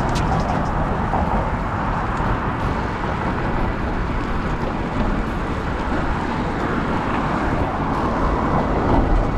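Steady street traffic and road noise heard from a moving bicycle towing a trailer, an even rumble with no distinct events.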